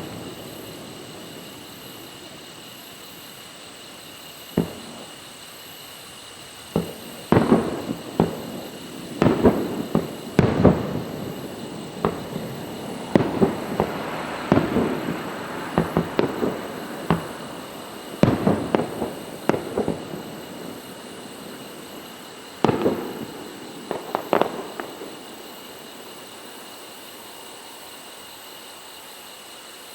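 Aerial fireworks shells bursting: a long series of sharp booms, each with a short trailing rumble, coming singly and in quick clusters, starting about five seconds in and dying away a few seconds before the end.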